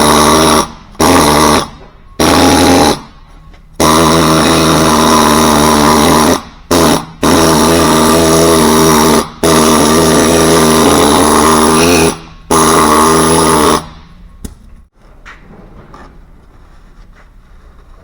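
A high-speed power tool whining, run in about eight bursts of varying length, the longest a few seconds, as if cleaning a surface; it stops about 14 seconds in, leaving faint handling clicks.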